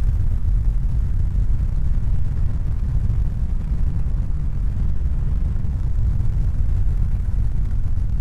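Steady deep rumbling noise with no distinct tones or events.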